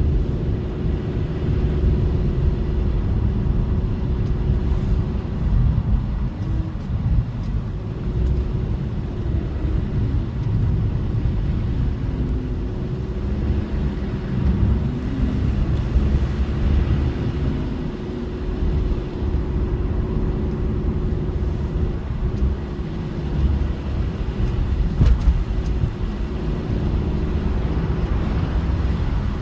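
Car driving steadily, a continuous low rumble of engine and road noise heard from inside the cabin.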